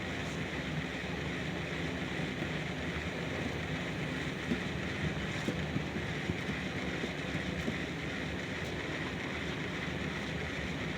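Steady rushing ambient noise with a low rumble underneath and a few faint ticks.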